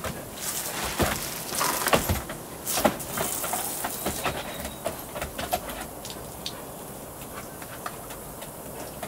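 Garden hose spraying, with water splattering and a scattered run of short clicks and knocks, thickest in the first three seconds or so.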